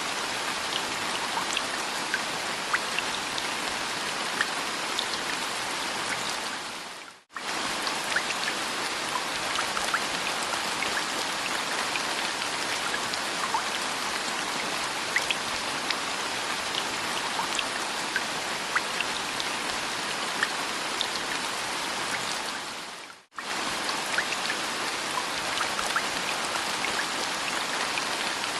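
Steady rain with scattered sharper drops ticking. It fades out and straight back in twice, about 7 and 23 seconds in.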